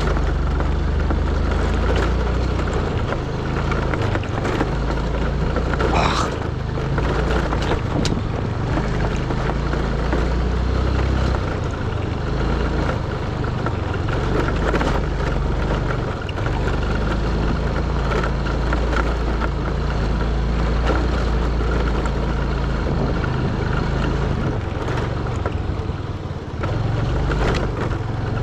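Motorbike engine running steadily while riding, with heavy wind rumble over the microphone.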